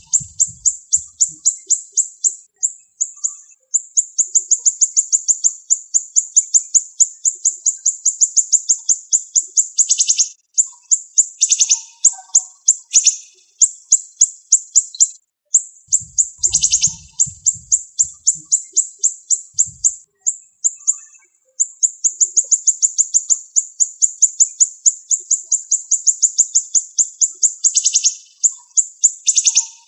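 Siri-siri songbird singing long, very high-pitched, rapid trills of evenly spaced notes, broken by a few short pauses and some brief downward-sweeping calls.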